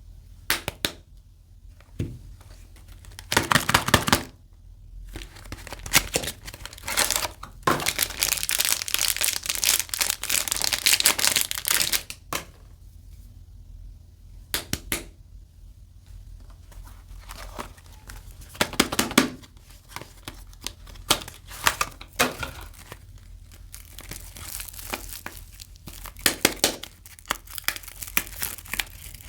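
Soap bar packaging being unwrapped by hand: paper and plastic wrapping crinkling and tearing in irregular bursts, with a long continuous tear and rustle from about seven to twelve seconds in.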